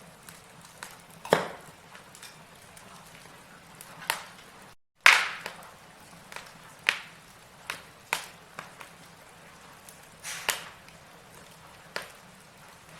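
Burning logs in a fireplace crackling, with sharp irregular pops a second or two apart over a faint hiss. The sound cuts out for a moment just before five seconds in.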